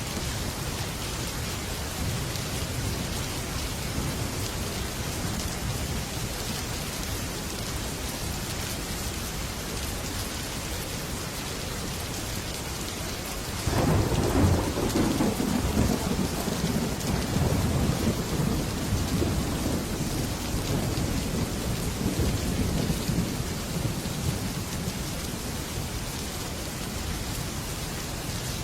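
Heavy rain drumming steadily on a metal roof, with a faint distant rumble early on and a loud clap of thunder about halfway through that rolls on and fades over several seconds.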